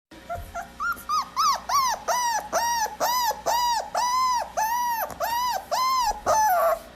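A dog whining in a rapid series of high, rising-and-falling cries, about two and a half a second, ending with a longer falling whine.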